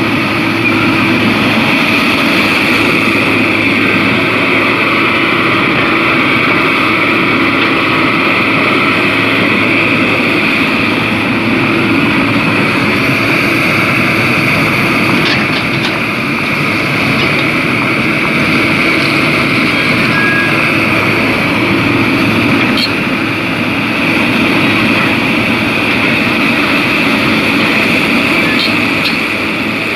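Excavator's diesel engine running steadily, with a few faint clicks over it.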